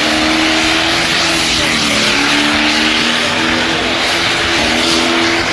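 High-powered burnout engine held at high revs, its pitch wavering and dipping briefly about two seconds in, over a loud hiss of spinning tyres.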